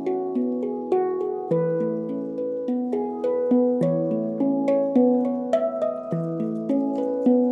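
Handpan being played: a flowing run of struck, ringing steel notes, several a second, each note sustaining under the next.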